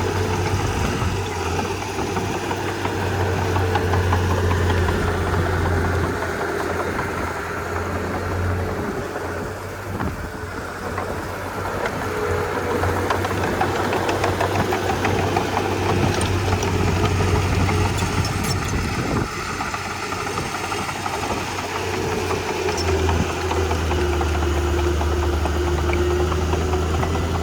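Komatsu D31P bulldozer's diesel engine running steadily as the machine works, its low drone easing off in the middle and coming back strong near the end.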